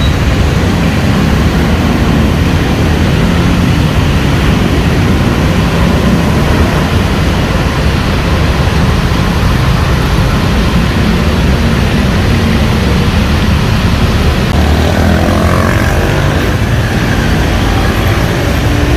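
Heavy city traffic on a rain-wet road: a loud, steady rumble of engines over the hiss of tyres, with a brief rising and falling engine note near the end.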